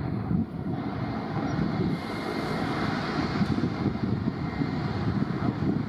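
Jet airliner engines, a steady rumble, with a higher hiss building about two seconds in.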